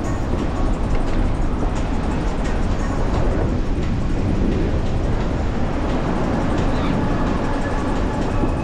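Steady rumbling noise of a beach cruiser rolling over the sand, with wind buffeting the microphone and faint clicks from the bike.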